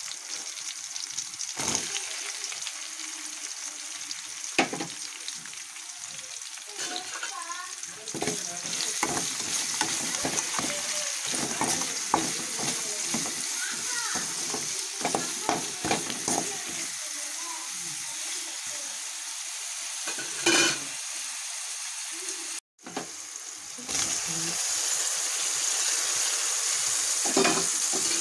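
Shallots and onions sizzling in hot oil in a metal pot, stirred with a perforated metal ladle that scrapes and clinks against the pot again and again. A brief break about two-thirds through, after which the sizzle is somewhat louder.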